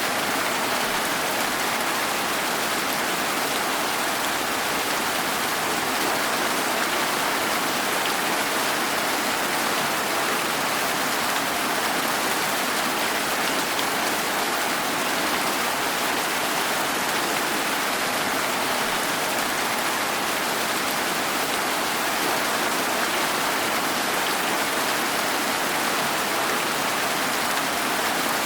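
Steady, even rainfall hissing without a break.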